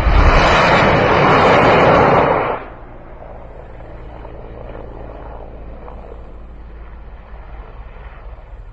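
A salvo of unguided rockets launching from an attack helicopter: a sudden loud ripping roar that starts abruptly and holds for about two and a half seconds before cutting off, leaving a lower steady rumbling noise.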